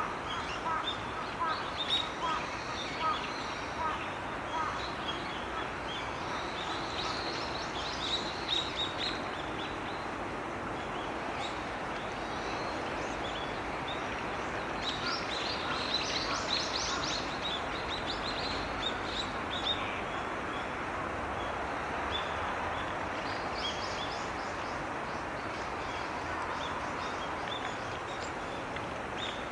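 Small birds chirping in short, high bursts that come in clusters, over a steady background hiss.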